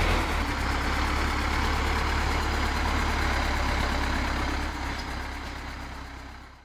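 Vladimir T40 tractor's air-cooled four-cylinder diesel engine running steadily with a low drone, fading out near the end.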